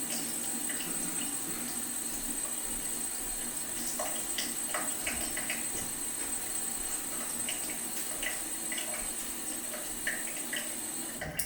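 Leaky faucet trickling steadily, with irregular drops plinking through it. The water sound cuts off suddenly near the end.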